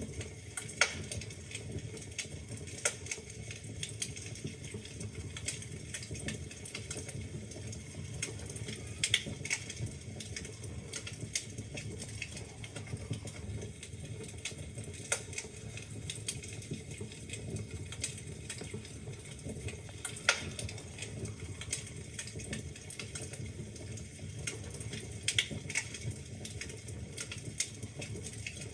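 Wood fire burning in a fireplace, crackling with a steady low rumble and frequent irregular pops and snaps, a few louder ones scattered through.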